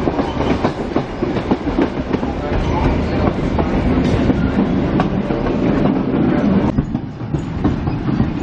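Heritage passenger carriage of a diesel-hauled train running along the track, heard from inside: a steady rumble of wheels on rail with frequent clicks and knocks. It is briefly quieter about seven seconds in.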